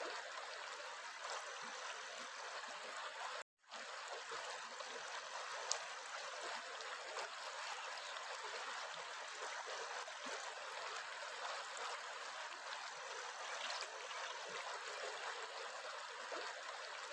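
Steady rushing of flowing stream water, cut off to silence for a split second about three and a half seconds in, with a single sharp tick a couple of seconds later.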